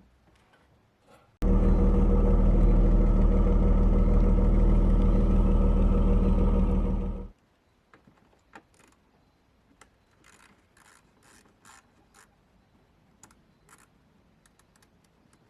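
BMW E39 520i's inline-six engine being cranked by the starter motor for about six seconds without catching, starting and cutting off abruptly: a crank-no-start condition. Small clicks follow.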